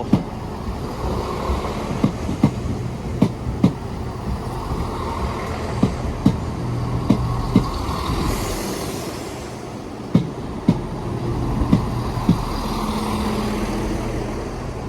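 Chiltern Railways Class 168 diesel multiple unit running into the station, its underfloor diesel engines humming steadily while the wheels click over rail joints, often in pairs, every half second or so.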